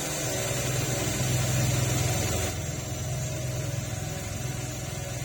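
Electric drill running steadily as its bit bores into aluminum, the high hiss easing about halfway through. The bit is worn, and the driller blames it rather than the hard metal for the slow cutting.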